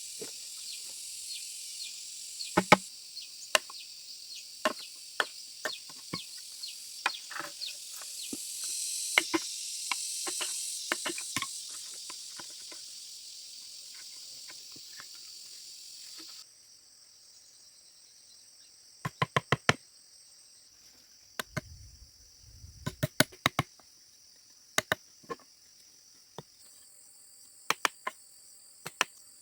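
Sharp knocks and taps of hand tools striking bamboo, scattered at first and later in quick clusters of four or five, over a steady high buzz of forest insects. The insect sound changes abruptly about halfway through.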